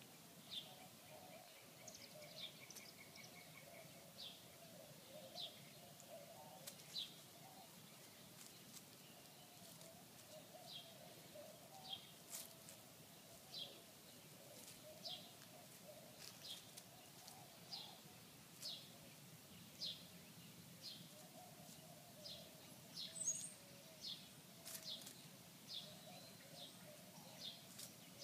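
Faint outdoor ambience with a bird repeating short, high, downward-sliding chirps about once a second, over a fainter, lower wavering sound.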